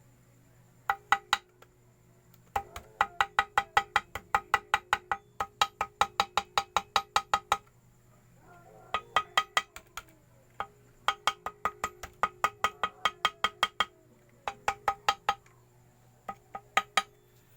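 Quick, even hammer taps on metal, each ringing at the same pitch, in runs of several strikes at about four a second with short pauses between runs.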